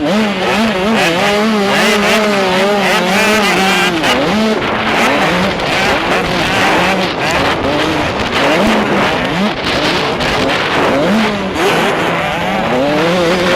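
Two-stroke 85cc motocross bike engine revving hard, its pitch rising and falling again and again with throttle and gear changes, under a constant rush of wind on a helmet-mounted microphone.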